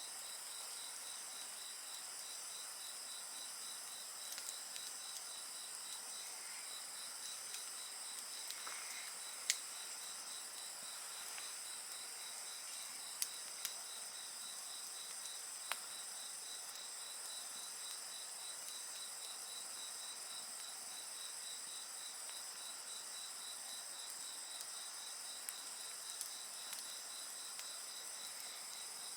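A chorus of crickets and other insects calling steadily, one of them in an even, rapid pulse, over a wood campfire that gives off a few sharp, isolated crackles and snaps.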